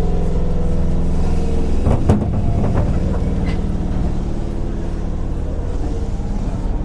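Seibu 101 series train running, heard from inside motor car MoHa 223: its traction motors hum low and steady under the wheel and track noise. A few sharp knocks come from the wheels about two seconds in, and the hum eases off in the second half.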